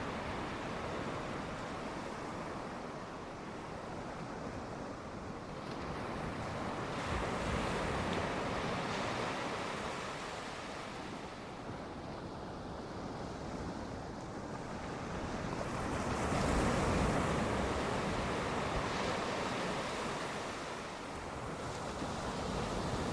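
Sea waves breaking on the shore: a continuous wash of surf that swells louder twice, about eight seconds apart.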